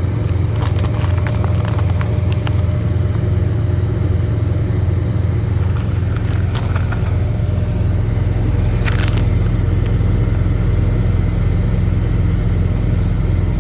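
Truck engine idling with a steady low rumble, with a few light clicks and scrapes of cooking utensils over it, about a second in, around six seconds and once more near nine seconds.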